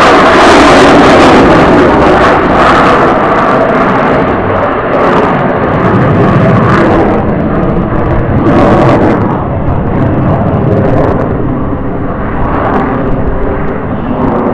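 Jet noise of an F-35A Lightning II's afterburning turbofan as the fighter flies its airshow display. It is loudest at the start, then eases off and rises again in a few swells as the jet moves away.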